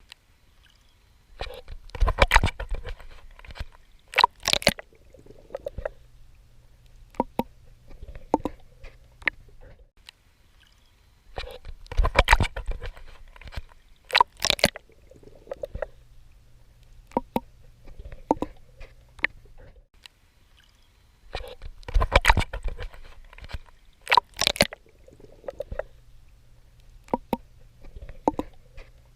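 Water splashing and sloshing from a swimmer's strokes in the sea, with gurgles and small drips between. Two loud splashes come close together about every ten seconds, in a repeating cycle.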